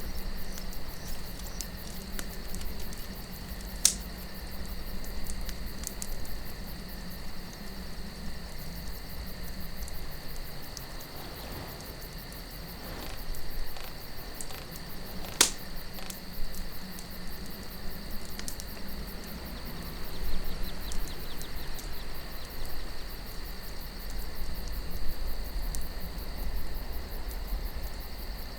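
Wood campfire crackling, with scattered sharp pops, the loudest about halfway through. Under it run a steady high cricket chorus and a low rumble of wind.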